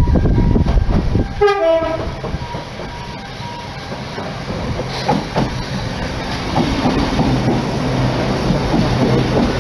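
Passenger train sounding a short horn blast about one and a half seconds in, then coming out of the tunnel and running into the platform, its rumble and wheel clatter growing louder over the last few seconds.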